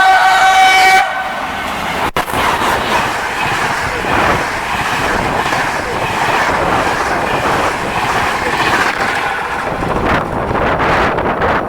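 Train horn sounding one steady, several-note chord that cuts off about a second in, followed by a train passing: continuous rumble and wheel noise on the rails.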